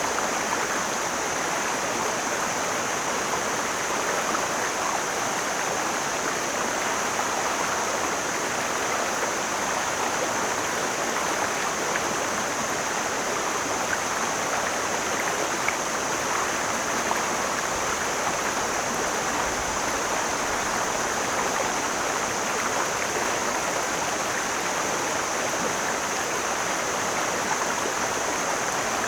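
Mountain stream flowing steadily, a constant rushing of water with no breaks.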